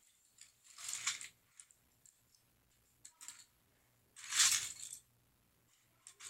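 Small plastic Lego pieces being handled and rummaged through: two short rattling, rustling bursts, the second about four seconds in and the louder, with a few small clicks between them.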